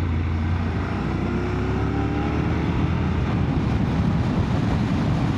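Motorcycle engine running at road speed under a steady rush of wind and road noise, heard from the rider's camera while riding.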